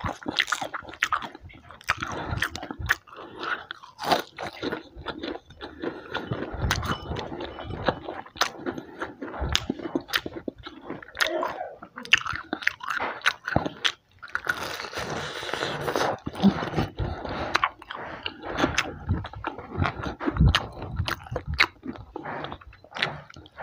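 Crunching bites and chewing of crispy breaded fried chicken, close to the microphone: many sharp crackles of the fried coating breaking, with wet chewing between them.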